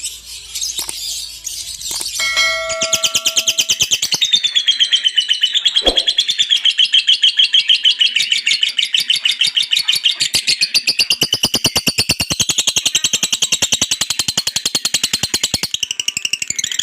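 Lovebird's long 'ngekek' chatter: a fast, even rattle of rapid high notes held for about thirteen seconds, starting a few seconds in and stopping shortly before the end.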